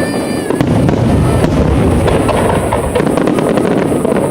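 A dense barrage of aerial fireworks bursting in quick succession, with deep booms and crackling overlapping without a break.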